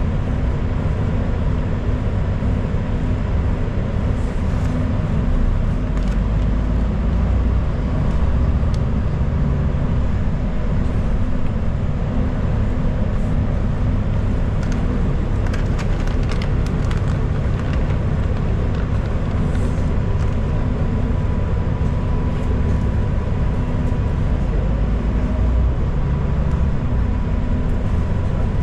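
Steady low rumble of a city bus running along the road, heard from inside the passenger cabin, with a faint steady whine and a short patch of light rattles about halfway through.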